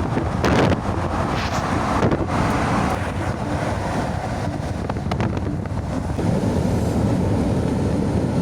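Wind buffeting the microphone: a rough, steady rush with low rumbling gusts.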